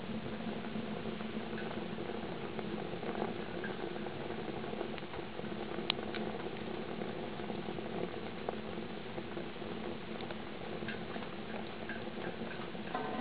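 Wood fire burning in a homemade pail-can rocket stove: a steady rushing burn with a few sharp crackles and pops, the clearest about halfway through.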